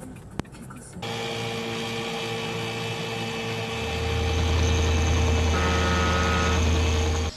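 A vehicle engine running steadily with a constant hum; a heavier low rumble builds up about four seconds in, and the sound cuts off abruptly near the end.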